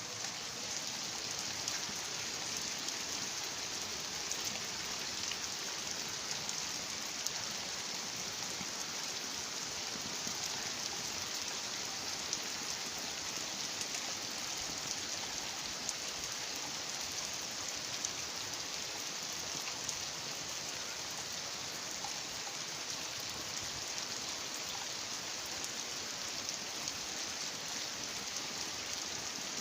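Heavy rain falling steadily: a constant hiss with scattered sharper drop hits.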